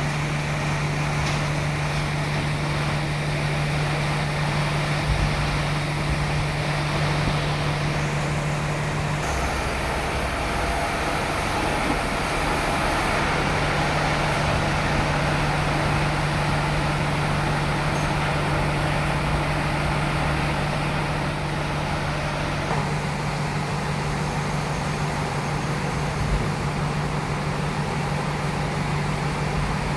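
Sawmill running steadily with a constant low hum, its saw cutting through a large teak log.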